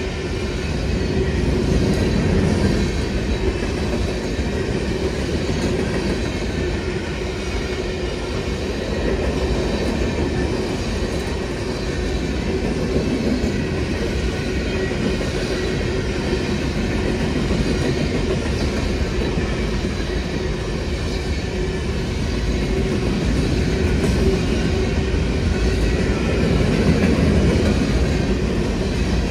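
Freight train boxcars rolling past at trackside: a steady rumble of steel wheels on rail with some clickety-clack over the joints and a steady hum running through it.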